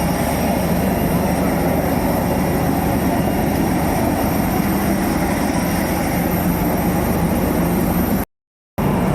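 Steady airliner noise after landing: a continuous hum and hiss with a faint high whistle. It drops out completely for about half a second near the end.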